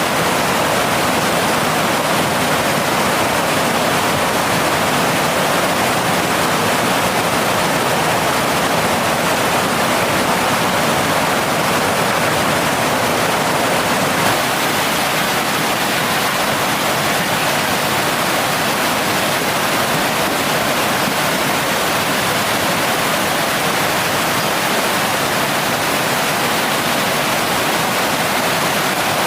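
Water of a mountain stream rushing over rocks, a steady loud even rush with no break.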